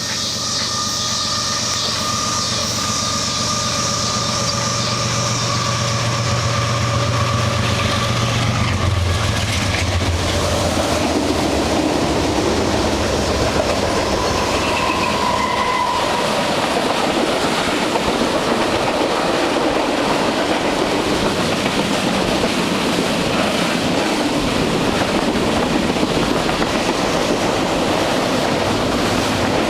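A train passing close by: the locomotive's steady engine hum for the first nine seconds or so, then the cars rolling past with a continuous rumble and clickety-clack of wheels on rail.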